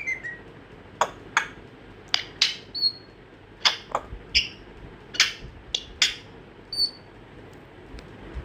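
African grey parrot making a string of short, sharp clicks and squeaks, with a few brief high whistles between them.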